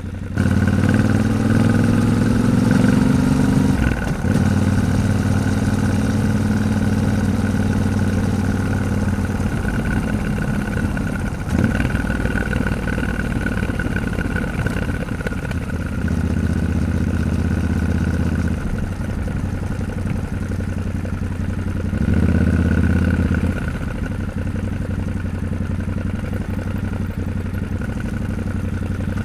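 Yamaha Ténéré 700's parallel-twin engine under way. It picks up and climbs in pitch about half a second in, then a gear change breaks it near four seconds. It runs on with the throttle opened up again twice later.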